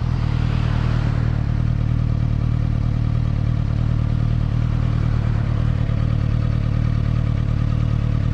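Motorcycle engine running steadily while riding, a constant low drone that holds one pitch throughout.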